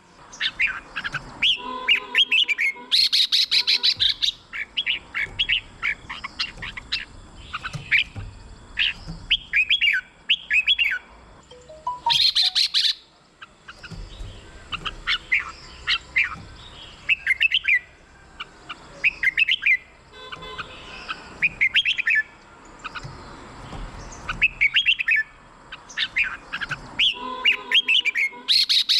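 Red-whiskered bulbuls singing: short, quick phrases of whistled notes rising and falling, repeated one after another with brief gaps. Three louder, harsher bursts break in, a few seconds in, about halfway through and near the end.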